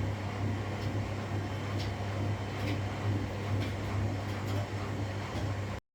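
Washing machine running mid-cycle: a steady low hum with faint irregular ticks. The sound cuts out abruptly for a moment near the end.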